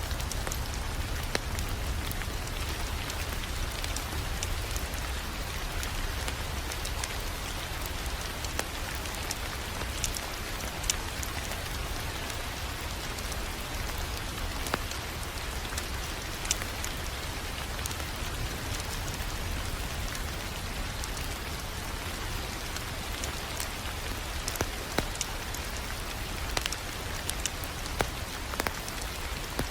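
Wood fire crackling in a fireplace: irregular sharp pops and snaps over a steady hiss and a low rumble.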